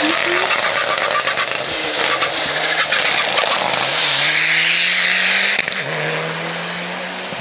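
Hillclimb race car engine at full throttle passing close by, with crackling and popping from the exhaust, then the engine note rising in pitch before falling back sharply about three-quarters of the way in.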